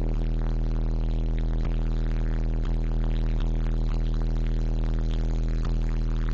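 Car-audio subwoofers, 15-inch Digital Designs 500-series in a truck's wall box, playing a deep, steady bass note that overloads the recording into a buzzy drone. A few short clicks or rattles break in every second or so.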